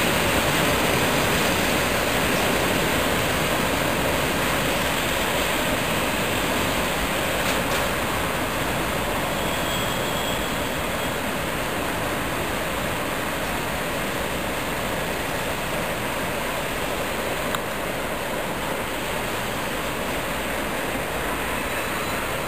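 Freight train of hopper wagons rolling away along the track: a steady noise of wheels on rails that slowly fades as the train recedes.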